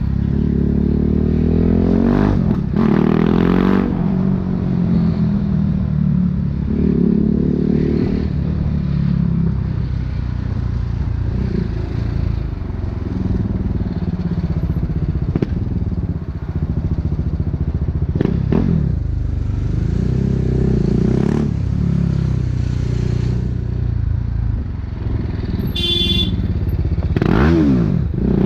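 BMW G 310 R's single-cylinder engine through an Akrapovic racing exhaust, revving up and easing off again and again as the bike pulls away and slows. A brief high-pitched tone sounds about 26 seconds in.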